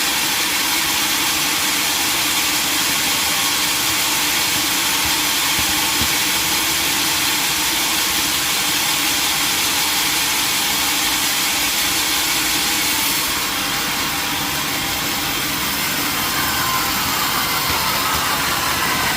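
Sawmill machinery running steadily with a constant mechanical noise; it eases slightly in level about two-thirds of the way through.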